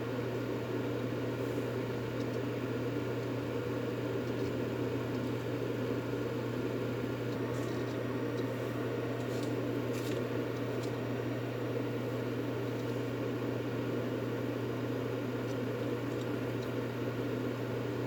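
Steady white-noise track for soothing a baby to sleep: a constant low hum with a dense whirring rush over it, like a running appliance or fan, unchanging throughout.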